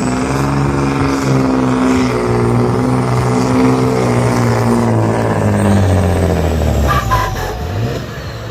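Supersport pulling truck's diesel engine running hard under load, its pitch sinking slowly as it labours down the track. The engine drops off about seven seconds in.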